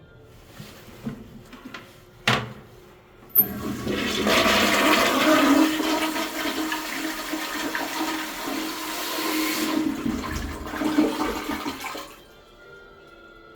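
Daelim Dobidos DC-102G toilet flushing. A sharp click is followed about a second later by a loud rush of water that runs for about nine seconds, then dies away fairly quickly. Faint music plays underneath.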